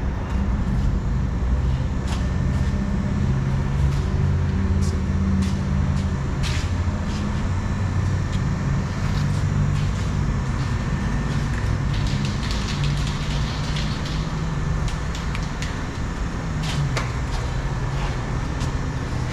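An engine idling, a steady low drone, with a few short hisses and clicks over it.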